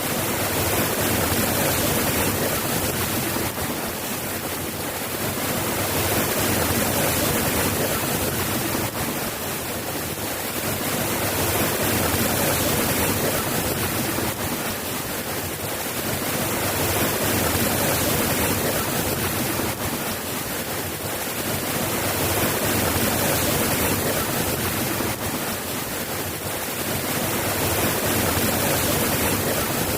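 Steady, continuous rain, an even hiss of falling drops with no thunder, swelling and easing gently about every five seconds.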